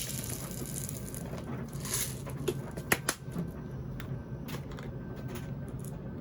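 Hands handling plastic laundry-product containers: a few short rustles and two sharp plastic clicks about three seconds in, over a steady low hum.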